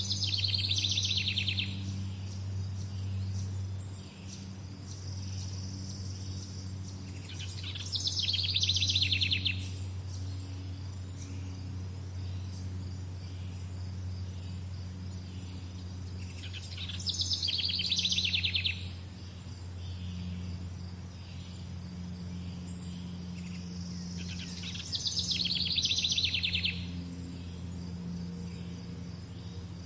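A songbird repeating a short, fast trilled song phrase four times, roughly every eight seconds, over a steady low hum.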